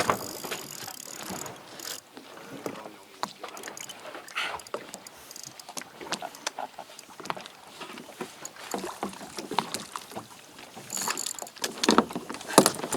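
Water sloshing against a kayak hull at sea, with many irregular knocks and clicks from the hull and gear.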